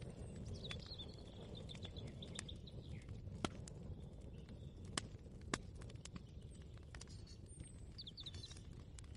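Kitchen ambience: a steady low background rumble, with small birds chirping in quick runs in the first second or so and again near the end, and three sharp clicks or knocks in the middle.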